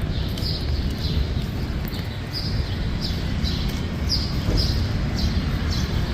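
A small bird chirping repeatedly, short high falling chirps about two a second, over a steady low rumble of city street noise.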